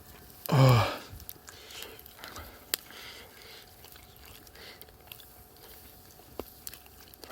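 A man's short, low voiced sound with a falling pitch about half a second in, then faint chewing and small clicks of eating.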